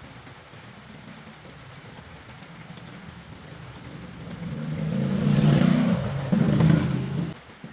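A car engine swelling in level over a couple of seconds, loudest near the end, then cutting off abruptly.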